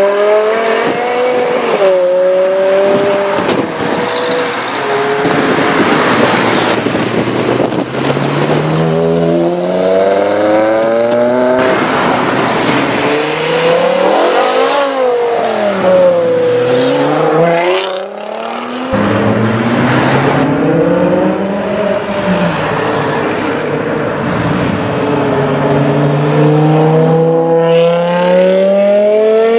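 Several BMW M5 E60s' 5.0-litre V10 engines accelerating hard, exhaust notes climbing in pitch and dropping again over and over, in a run of separate passes cut one after another.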